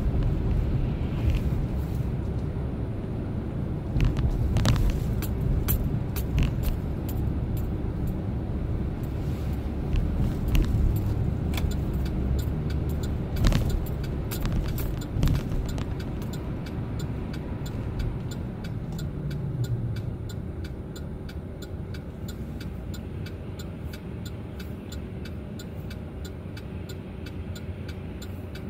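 Chevrolet Silverado pickup's engine and tyre rumble heard from inside the cab while driving, with many small clicks and rattles. It grows quieter over the last several seconds.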